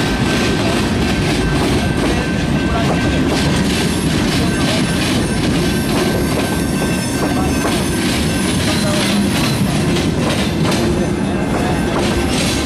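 Freight train of empty steel flatcars rolling past close by at low speed: a steady rumble of wheels on rail, with irregular clicks from the wheels and rail joints and a thin, steady wheel squeal above it.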